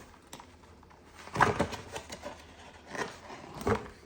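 Pages of a picture book being handled and turned: short papery rustles with soft thumps, the loudest about one and a half seconds in, two more near the end.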